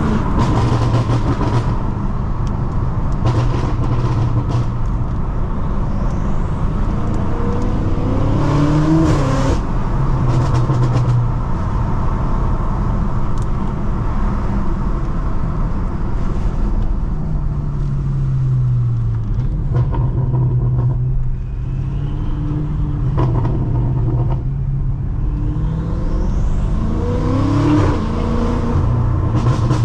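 Tuned Stage 2+ BMW M5 F90's twin-turbo V8, heard from inside the cabin. It accelerates hard in rising sweeps twice, once about a third of the way in and again near the end, and drops back to a steady cruise in between. Tyre and road noise from a wet road runs underneath.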